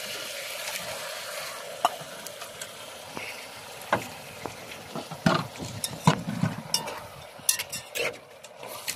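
Sliced squid frying in a hot pot with sautéed vegetables as it is stirred: a steady sizzling hiss, with sharp clicks and knocks of a metal utensil against the pot, coming more often in the second half.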